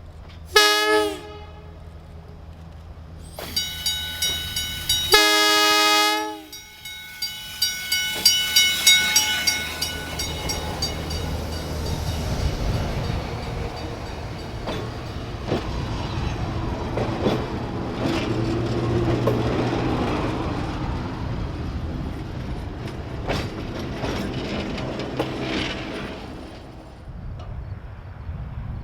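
Electric railway train sounding its horn, a short blast and then a longer one, while a bell dings rapidly. The train then rolls past with a rumble and rail clickety-clack that fades near the end.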